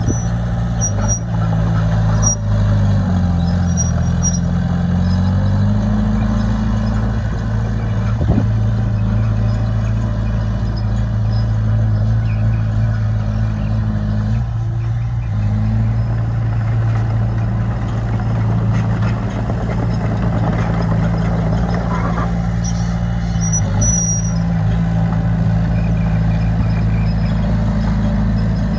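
Heavy diesel engine of a crawler bulldozer running steadily under work, its engine speed dipping briefly a few seconds in and then recovering.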